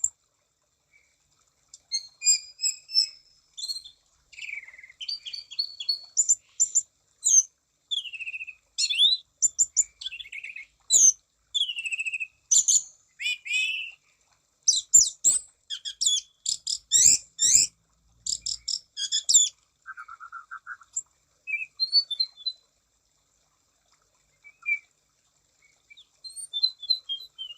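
Anis cendana thrush in full, energetic song: a fast run of varied whistles, chirps and trills in quick phrases, thinning to a few scattered notes near the end.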